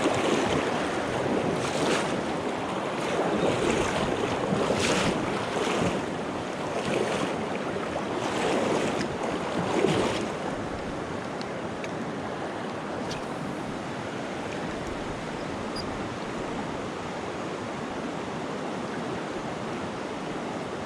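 Stream or river water rushing steadily, with louder surges over roughly the first ten seconds before it settles to an even rush.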